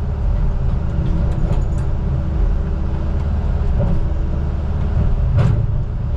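Heavy diesel engine of logging equipment running steadily with a low rumble, with a brief knock about five seconds in.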